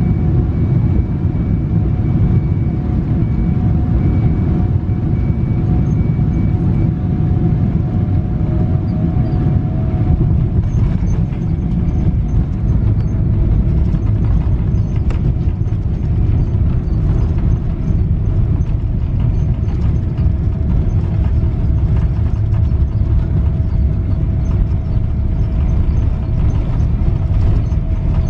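Steady loud rumble inside a Boeing 777-300 passenger cabin, from the jet engines and airflow. A faint engine whine steps down slightly in pitch about nine seconds in.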